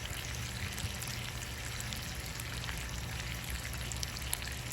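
Chicken sizzling as it cooks: a steady crackling hiss with small scattered pops, over a steady low hum.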